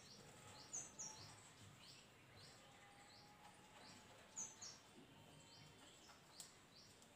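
Near silence, with a bird chirping faintly and repeatedly in the background: short high chirps that drop in pitch, about two a second. One faint sharp click sounds near the end.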